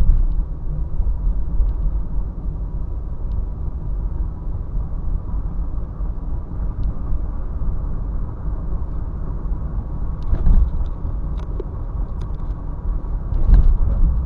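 Steady low rumble of a car driving, engine and tyre noise heard from inside the cabin, with louder swells about ten and thirteen seconds in.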